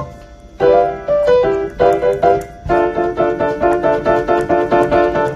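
Piano chords picked out by someone who says she can't play: a chord, a short pause, then a few chords, and from about halfway the same chords are struck over and over at about four a second.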